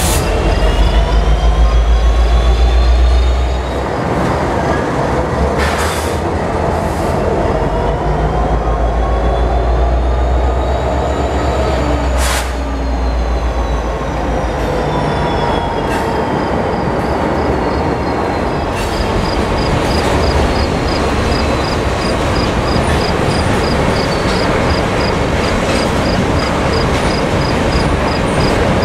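Norfolk Southern diesel freight locomotives passing close by with a heavy engine rumble, loudest in the first few seconds, then the freight cars rolling past with steady wheel noise and high squealing tones that rise and fall. Two sharp clanks come about 6 and 12 seconds in.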